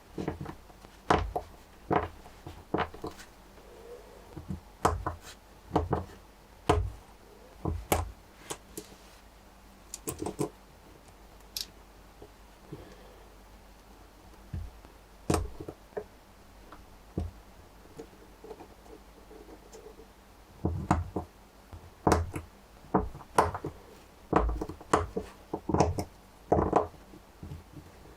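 Lego Technic pieces being handled and pressed together: irregular plastic clicks and knocks, some in quick clusters, with a quieter stretch in the middle.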